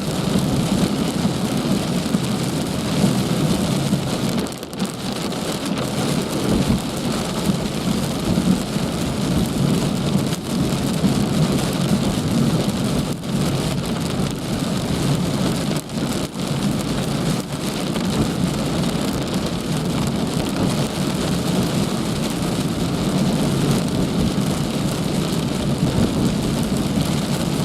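Heavy rain falling steadily, a dense continuous hiss of drops on surfaces.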